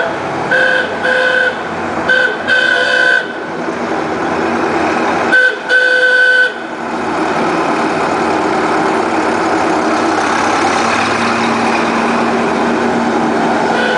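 A truck horn honking in short blasts: four in the first three seconds, then two more about five to six and a half seconds in. After that comes the steady sound of a truck engine running.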